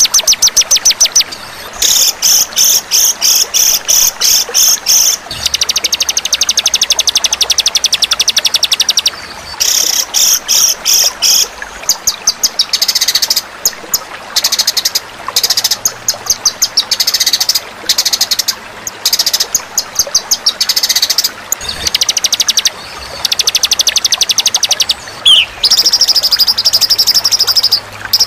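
Songbird song from a tutoring (masteran) recording for white-rumped shama: long runs of rapid, high, buzzy trills repeated in bursts with short pauses between them, and one brief falling whistle near the end.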